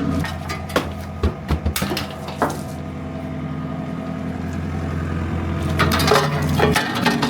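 Komatsu CK30 skid steer's diesel engine running steadily, with several sharp clanks and knocks in the first two and a half seconds and a louder, noisier stretch about six seconds in.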